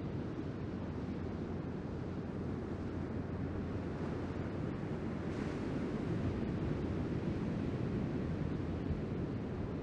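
Ocean surf washing steadily, with wind on the microphone; the wash swells slightly about halfway through.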